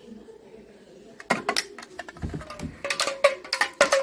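Damaru, a small two-headed hourglass hand drum, twisted back and forth so its knotted cords strike the heads: a run of sharp strokes starting about a second in and coming quicker toward the end.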